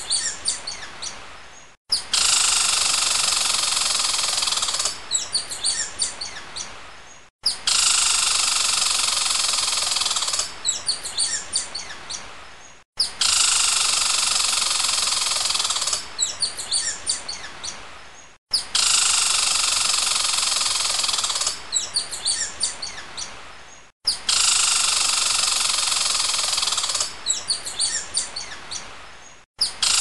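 Short nature recording of bird calls played on a loop, repeating about every five and a half seconds: a steady high hiss for about three seconds, then a quick run of high chirps that fades away, then a brief silent gap before it starts again.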